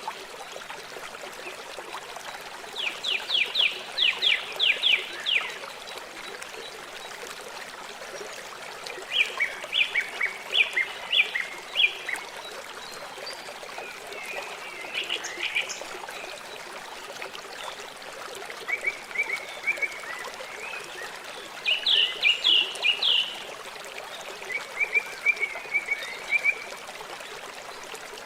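River water flowing steadily, with a bird calling over it in about six short bouts of rapid, high repeated notes.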